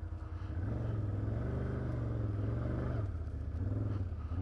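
Can-Am Outlander 850 XT ATV's V-twin engine running at low speed, picking up about half a second in, holding steady, then easing back near three seconds.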